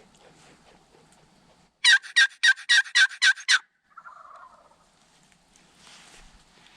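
A wild turkey gobbler gobbling once, close and loud: a rapid rattling run of about ten notes lasting nearly two seconds, beginning about two seconds in. A fainter, shorter falling call follows just after it.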